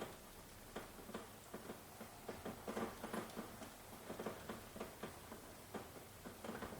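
Rain falling, heard as irregular drops tapping several times a second over a soft hiss.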